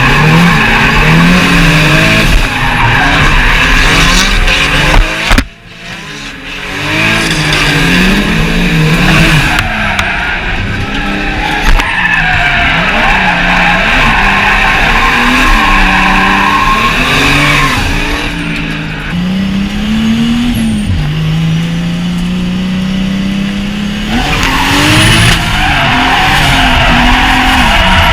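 Drift cars sliding: engines revving up and down hard while tyres squeal and skid. The sound drops away briefly about five seconds in, and later one engine holds a long, slowly rising note.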